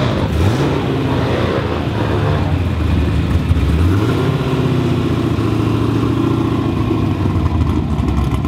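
LS2 V8 swapped into a Mazda RX-7 FD, running as the car pulls away at low speed, its revs rising and falling several times.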